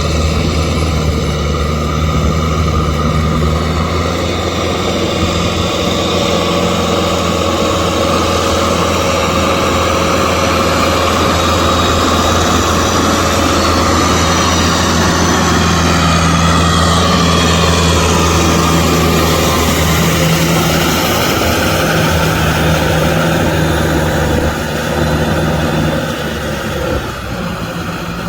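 Kubota M6040SU tractor's four-cylinder diesel engine running steadily under load while driving a rotavator through mud. The level eases slightly near the end.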